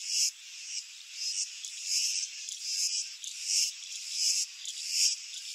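Insects buzzing in a high, rasping pulse that repeats roughly twice a second.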